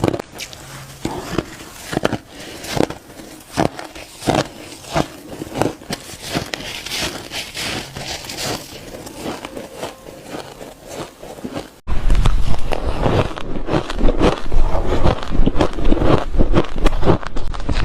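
Shaved ice being chewed with crisp, crunching bites at a steady rhythm of a little more than one a second. About twelve seconds in it suddenly turns much louder and denser: continuous crackling crunches with a low rumble.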